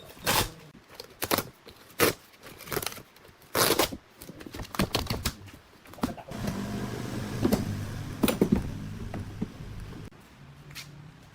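Irregular clicks, knocks and scrapes of hand work on parts, with a steady low hum and further knocks from about six to ten seconds in.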